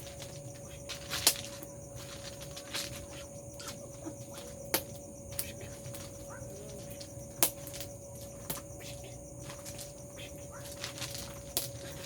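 Bonfire crackling: sharp, irregular pops every second or few, over a steady faint hum.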